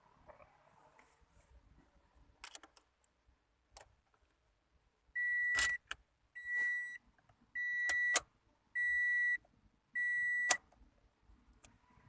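A car's electronic warning beeps: five steady, high beeps, each about half a second long and about one and a quarter seconds apart, with sharp clicks at some of them. A few faint clicks come before them.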